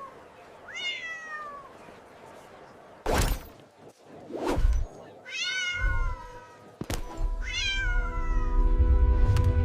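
A cat meowing three times, each call falling in pitch, with two short loud noises between the first and second meows. Music with a held chord comes in near the end.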